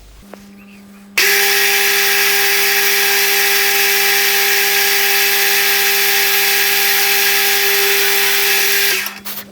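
Milling machine spindle running while a 3 mm hole is drilled into a brass drive wheel: a steady whine with hiss that starts about a second in and stops near the end, over a low hum.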